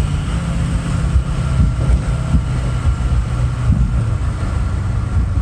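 A pickup truck heard from inside the cab while driving: a loud, steady low rumble with a faint steady whine above it. This is the odd noise that comes on when the truck goes over a bump and only stops at the next bump.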